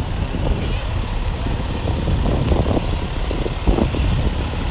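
Heavy truck engine running, a steady low rumble.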